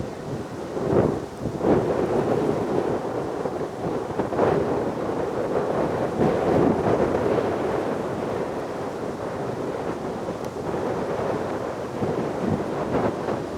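Aircraft engine roar, a steady low rumble with irregular louder surges, mixed with wind buffeting the microphone.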